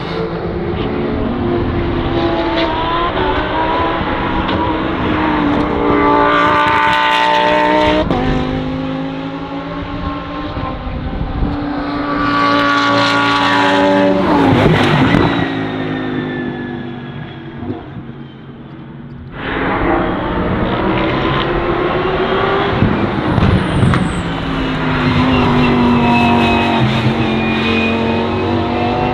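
Lamborghini Huracán Super Trofeo EVO2 race cars' V10 engines at full throttle on track, revving up through the gears and passing by with a falling pitch as they go past. There is a sudden cut about two-thirds of the way through to another stretch of engine running hard.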